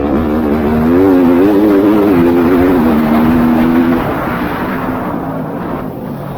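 A motocross bike's engine on the race track, its pitch rising and falling as the throttle is worked. It is loudest about a second in and fades away after about four seconds as the bike moves off.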